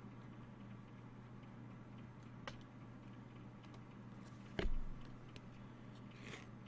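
Trading cards being handled: scattered faint ticks and clicks, a louder knock about four and a half seconds in and a short rustle near the end, over a steady low hum.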